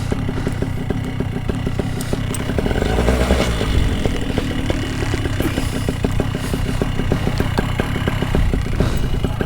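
Small two-stroke paramotor engine idling steadily, with a slight swell about three seconds in.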